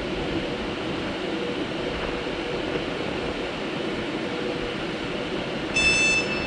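Avanti West Coast Class 390 Pendolino electric train standing at the platform, its equipment giving a steady hum. Near the end a loud, high-pitched tone sounds in short bursts.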